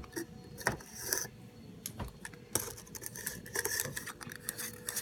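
Hand soap and salt being stirred in a cup: a utensil scraping and clicking against the container in quick, irregular strokes, getting busier about halfway through.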